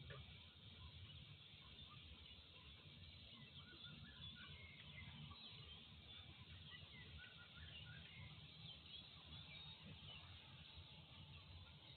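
Near silence: faint, scattered bird chirps over a low steady rumble.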